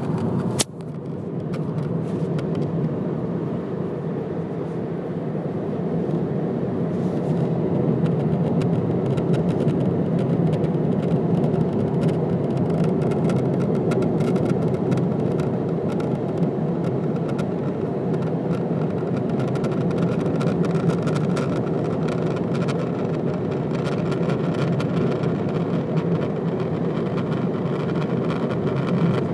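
Inside the cabin of a BMW F31 3 Series Touring, steady car running noise with a buzzing rattle from the plastic trim piece right behind the steering wheel. A single sharp click comes about half a second in.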